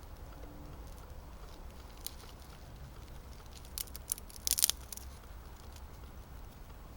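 A ferrocerium fire steel scraped hard a few times in quick succession, a sharp metallic rasp about four to five seconds in, throwing sparks onto birch bark to light a campfire.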